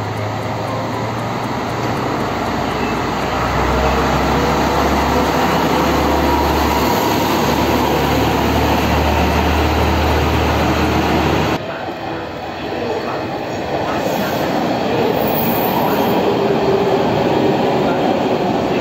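A Kiha 32 diesel railcar pulls away, its diesel engine running with a low steady hum as it moves off along the rails. About two-thirds of the way through the sound cuts to a different train, an electric train rolling past on the rails.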